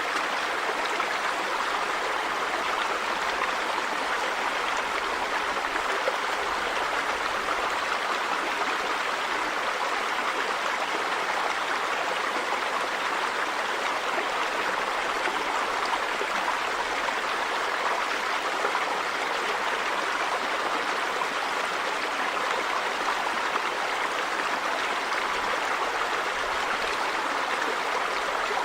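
River water running over rocks: a steady, unbroken rush.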